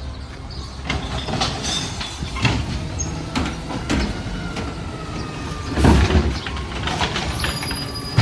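Garbage truck's engine running steadily, with a series of knocks and bangs, the loudest about six seconds in.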